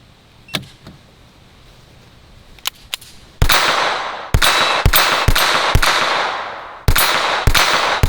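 Ruger Mark IV .22 LR semi-automatic pistol firing a rapid string of about seven shots, roughly half a second apart, each trailing off in an echo. A few sharp clicks come first.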